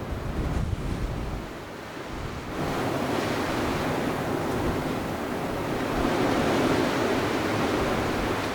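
Blizzard wind blowing hard and buffeting the microphone. It eases briefly about two seconds in, then rises again into a strong, sustained gust.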